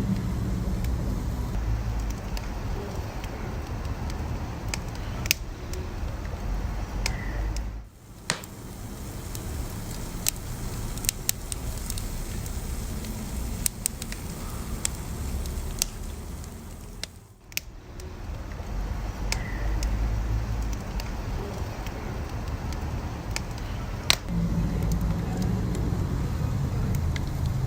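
Wood fire burning: a steady low rumble of flames with sharp, scattered crackles and pops. The sound briefly drops away twice, about 8 and 17 seconds in.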